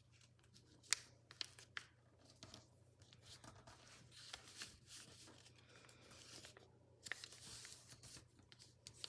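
Faint rustling and crinkling of a paper sheet being folded and creased by hand, with a few sharp paper crackles, the loudest about a second in and another near seven seconds.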